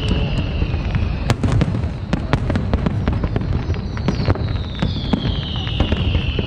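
Fireworks display: a dense run of sharp bangs and crackling pops over a constant low rumble of booms. A high whistle slides down in pitch twice, once at the start and again from about four seconds in.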